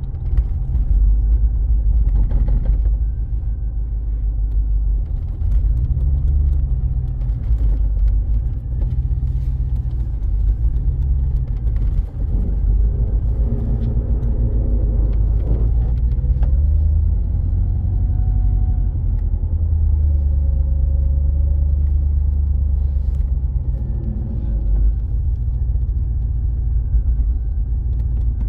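Twin-turbo LS V8 engine in a BMW E36 running, with a steady low rumble and its revs rising and falling several times.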